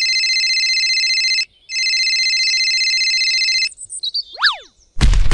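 Telephone ringing: two trilling rings of about two seconds each with a short break between. Then a quick whistle-like swoop up and back down, and a loud thump right at the end.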